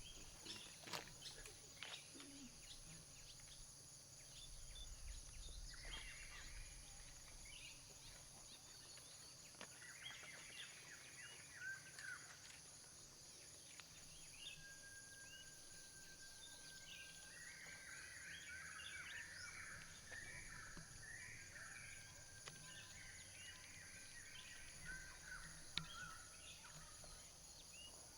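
Quiet forest-edge ambience: a steady high insect drone with birds calling in several short bursts of chirps, one bird holding a long thin whistle for several seconds midway.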